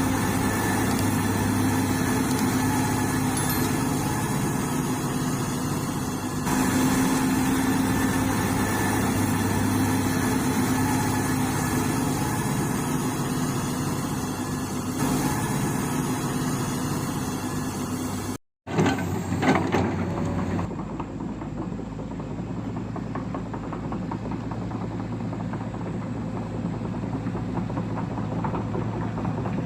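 Remote-control construction models running, a steady motor and gear whir with a held low hum. The sound changes abruptly at a cut about two-thirds through and is quieter after it.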